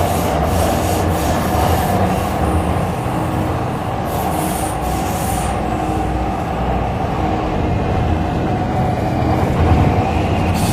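Cabin noise of a moving MTR C-Train electric metro train: a steady rumble of wheels on rail and running gear, with a faint high wheel squeal briefly about eight seconds in.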